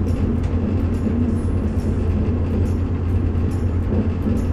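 Steady low rumble of a passenger train's carriage, heard at the door vestibule, with faint clicks.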